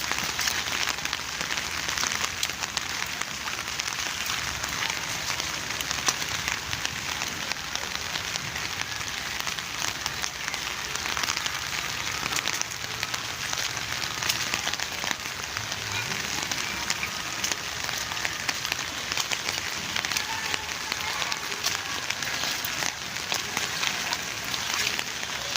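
Steady rainfall: a dense, even hiss of rain full of fine drop ticks.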